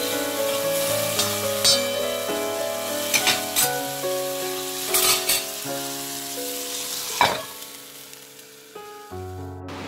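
Zucchini sticks sizzling on a tawa on low flame, with several sharp spatula scrapes and knocks, over background music. Near the end a glass lid goes on with a clink and the sizzling drops much quieter.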